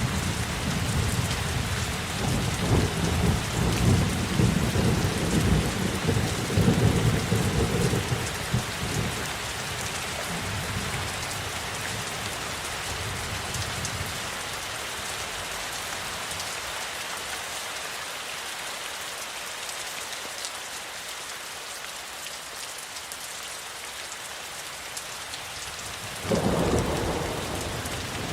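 Steady heavy rainfall with rolling thunder rumbling through the first several seconds and dying away. Near the end a sudden, louder thunderclap breaks in and trails off.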